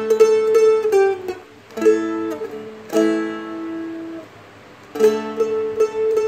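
Seagull Merlin M4 played slowly: the melody is picked a few notes at a time over ringing open strings, and each phrase is left to ring out before the next.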